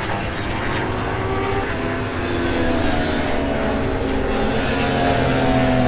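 Superbike racing motorcycle engines running at high revs on track, with several engine notes overlapping and sliding slowly down in pitch as bikes pass.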